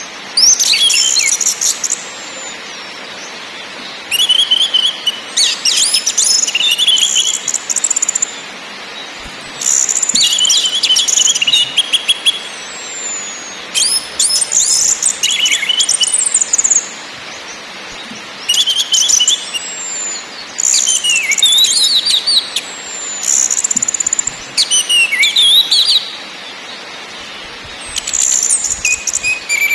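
Orange-headed thrush (anis merah) singing in repeated varied phrases of chattering notes and whistles, each a few seconds long with short pauses between, over a steady hiss.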